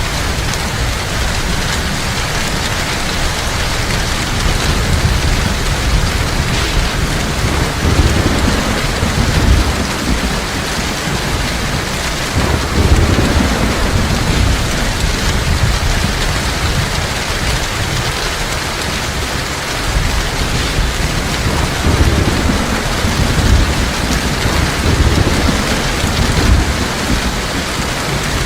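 Heavy rain falling steadily, with low rumbles of thunder rolling in several times.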